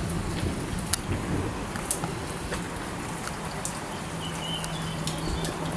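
Rain falling, with scattered drops ticking on a corrugated shelter roof. A low steady hum joins about four seconds in.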